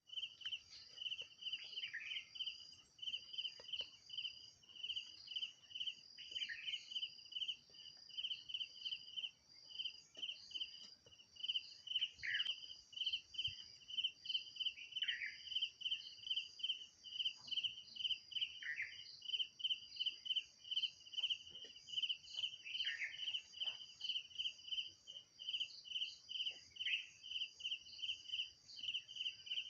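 Insects chirping in an even, rapid pulse, about three chirps a second, over a steady high hiss. Every few seconds a bird gives a short falling call.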